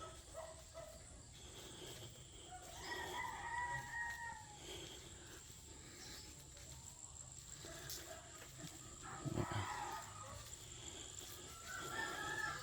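A rooster crowing, once about three seconds in and again near the end, with a short thump in between.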